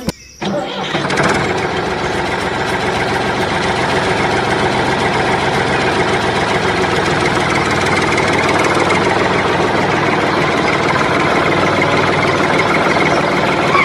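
Small motor of a DIY miniature tractor water pump running steadily with an engine-like drone. It starts about half a second in and cuts off abruptly at the end.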